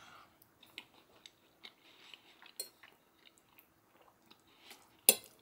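A person quietly chewing a mouthful of rehydrated chili and rice, with faint scattered mouth clicks. Near the end a metal spoon scrapes the plate.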